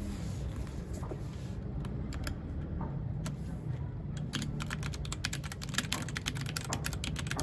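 Mechanical keyboard keys clacking: a few scattered keystrokes at first, then steady fast typing from about four seconds in, over a low steady hum.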